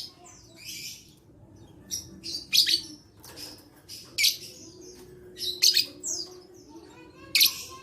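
Lovebird calling: a series of short, shrill chirps and screeches, roughly one every half second to second with brief pauses between.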